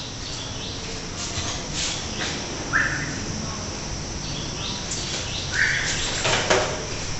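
Birds chirping over a steady background hiss, with two clearer short calls about three seconds apart and a few brief sharp sounds in between.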